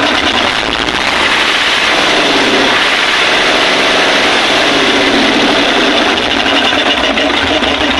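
Nissan Diesel RF8 V8 diesel engine running: it is revved up about two seconds in, held, then drops back to idle near the end.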